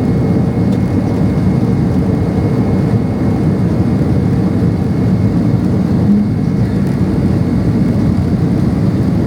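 Steady, even cabin noise of a Boeing 767-300ER climbing out, the jet engines and rushing airflow heard from inside the cabin at a window seat.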